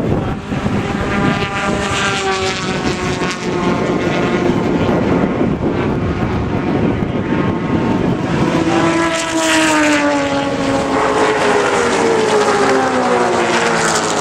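Racing V8 engines of historic muscle cars going past at full throttle, with a loud pass-by about nine seconds in whose pitch then falls away as the car goes on down the straight.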